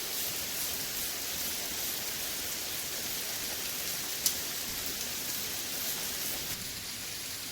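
Heavy rain pouring down in a steady hiss, with one sharp click about four seconds in.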